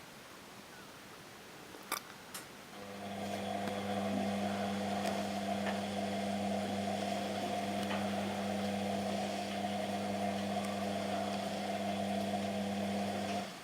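Washing machine motor turning the drum: a steady hum starts about three seconds in, runs for about ten seconds and cuts off just before the end. Two short clicks come shortly before it starts.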